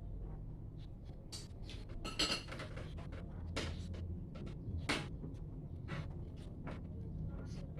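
Scattered light clicks and knocks of dishes and eating utensils being handled during a meal, with a short rustle about two seconds in, over a steady low hum.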